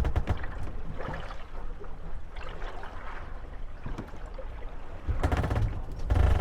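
Moored wooden gondolas rocking on lapping water, knocking and clattering against each other and their moorings, with a busier, louder run of knocks and low thumps near the end.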